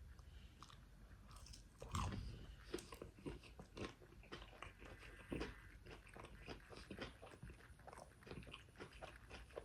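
Close-miked biting and chewing of crispy fried chicken: a crunchy bite about two seconds in, then a run of irregular crunching chews.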